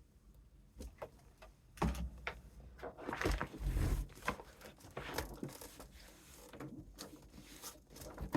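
Paper and cardboard craft pieces being handled and pressed into place: rustling with light knocks and clicks, busiest between about two and five seconds in.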